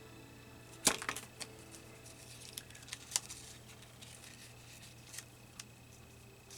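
Scissors snipping paper: a string of short, sharp snips and clicks, the loudest about a second in, with a few more spread through the rest.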